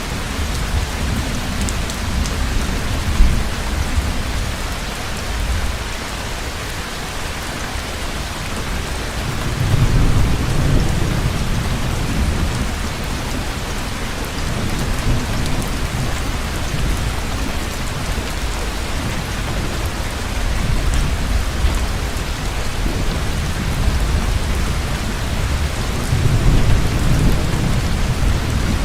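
Heavy rain falling steadily as an even hiss, with low thunder rumbling in several slow swells, the strongest about a third of the way in and another near the end. A single sharp crack sounds near the start.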